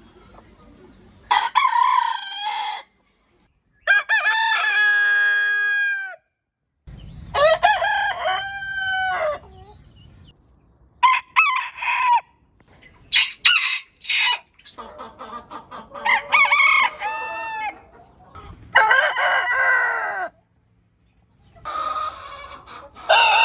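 Roosters crowing, about eight crows one after another, each lasting one to two seconds and several trailing off downward in pitch, with sudden silences between some of them.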